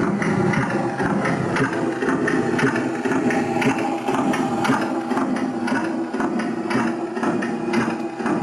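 Wooden model Reading 2100 steam locomotive running: a steady mechanical whir with a regular clicking beat about three times a second.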